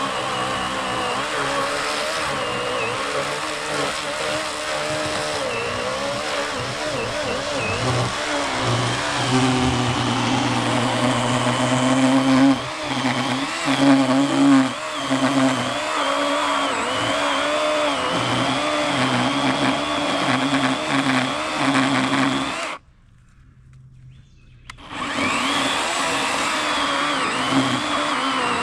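Worx WG384.9 40-volt battery electric chainsaw cutting through a large fallen log, its motor and chain whine sagging and recovering in pitch as the chain bites into the wood. Near the end the sound cuts out for about two seconds, then the saw runs again.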